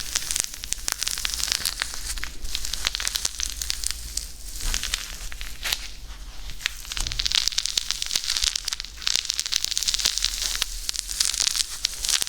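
Close-miked ASMR crackling: a dense run of fine clicks and crinkles that swells and fades every few seconds.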